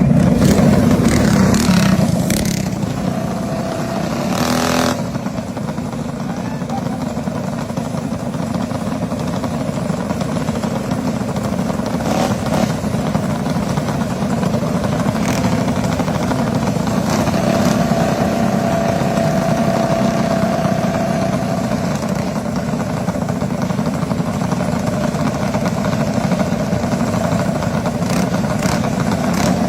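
Small minibike engines running during a race, a steady engine drone that is loudest at the start, with a few brief sharp noises in the first five seconds.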